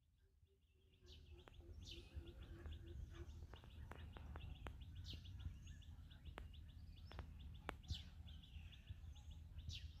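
Faint outdoor birdsong: short high chirps repeating in quick runs, over a low steady rumble.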